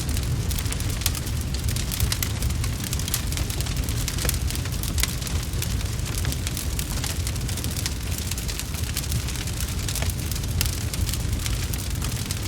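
Wood fire crackling, with many small sharp pops and snaps over a steady low rumble.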